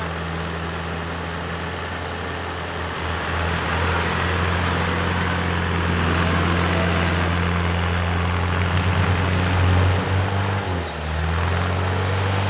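A Jeep Wrangler's engine running at low revs as the 4x4 creeps along on mud, with a steady low hum that grows louder about three seconds in. The hum wavers and briefly dips near the end.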